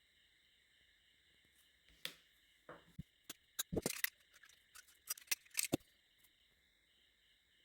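A series of sharp clicks and taps, bunched between about two and six seconds in, over a steady faint chirring of crickets.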